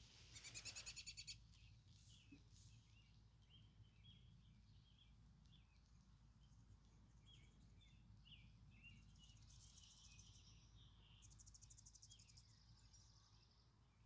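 Faint songbirds calling: a fast trill about a second in and again near the end, with many short chirps between, over a low steady rumble.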